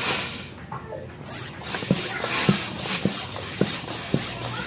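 Repeated hissing bursts of air, each about a second long, blown into the open oil-drain and strainer ports of a Honda TMX 125 Alpha engine to push out the last of the old oil, with light knocks from handling the tools.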